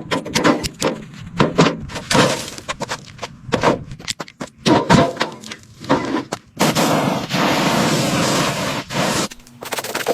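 A quick run of sharp knocks and clanks, then a steady hissing rush that starts near the middle and lasts about two and a half seconds, with knocks starting again near the end.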